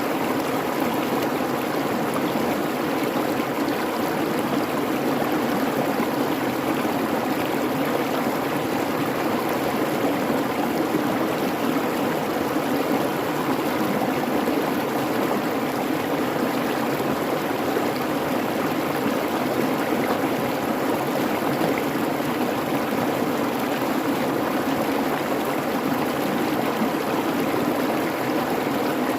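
A creek babbling and running steadily over rocks, an even rush of water without pauses or changes.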